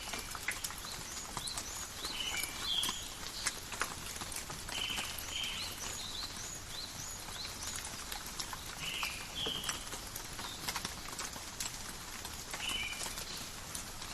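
Steady rain in a forest, with drops ticking and pattering close by. Birds call throughout: a short two-note phrase repeated every few seconds and quick rising chirps.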